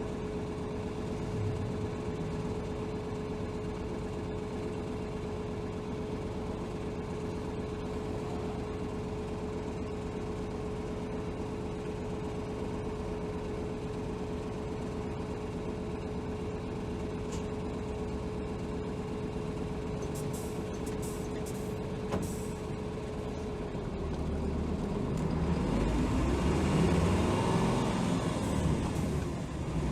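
Inside a Hino Rainbow HR city bus: its diesel engine idles with a steady hum while the bus stands, and a few light clicks come near the middle. About 24 seconds in, the engine revs up and grows louder as the bus pulls away and accelerates.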